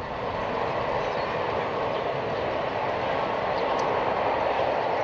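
Boeing 777 jet engines heard from the ground as the airliner passes: a steady, loud rushing noise, strongest in the middle range.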